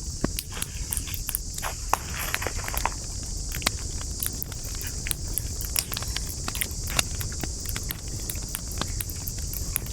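Wood campfire crackling: irregular sharp pops and snaps from the burning wood, several a second, over a steady high hiss and a low rumble.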